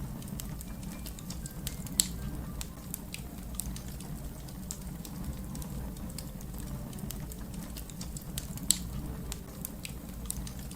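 Wood fire crackling: irregular small pops and snaps over a steady low rumble, with two louder pops, one about two seconds in and one near the end.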